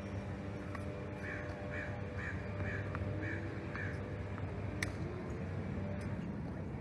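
A bird calling about seven times in an even series, roughly two calls a second. A single sharp tap follows about five seconds in.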